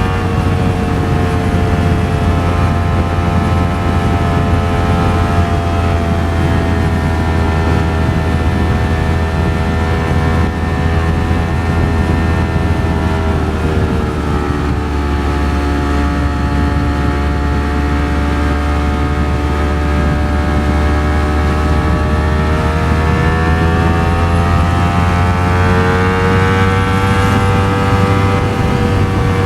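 Ducati Streetfighter V4S's V4 engine pulling at a steady highway cruise, with heavy wind rumble on the rider's microphone. The engine note sags about halfway through and climbs back up near the end.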